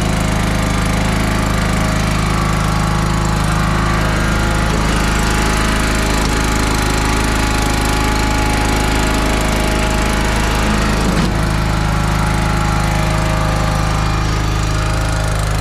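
John Deere mower's engine running steadily just after a cold start.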